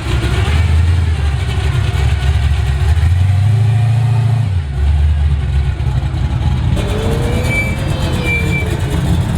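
A car engine running close by with a deep rumble. The note steps up about three seconds in and drops back a moment later, as if the engine is given a little throttle.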